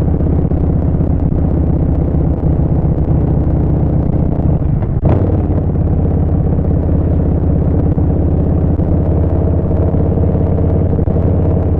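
Harley-Davidson Street Bob 114's Milwaukee-Eight V-twin running steadily under way through a Vance & Hines Short Shots full exhaust system. About five seconds in there is a short click and a brief change in the engine note.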